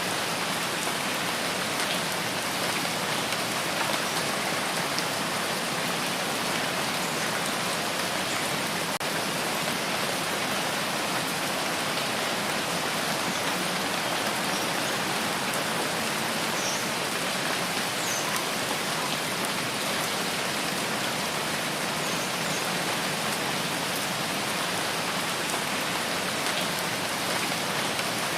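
Steady rain falling in a rain forest, an even, unbroken hiss. A few faint high chirps come through the rain in the middle.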